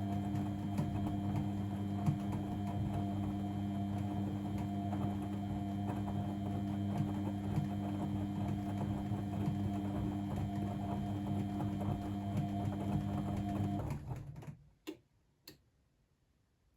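Blomberg WAF 7442 SL washing machine running with a steady motor hum and light ticking. The hum cuts off abruptly near the end, followed by two short clicks.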